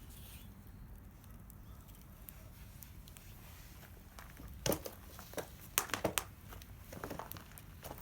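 A few irregular sharp clicks and crackles, clustered in the second half, over a steady low rumble.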